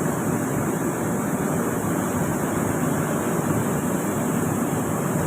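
Overlock (serger) sewing machine running steadily at speed, a dense even whirr and rattle from its needles, loopers and knives.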